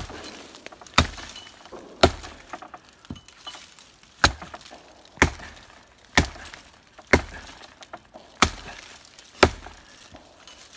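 Axe chopping dead wood: about nine sharp blows roughly a second apart, with a short pause after the third.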